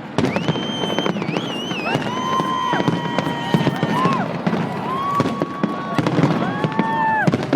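Fireworks display: a dense run of bangs and crackles, with several long, high-pitched held tones rising in and falling away over them.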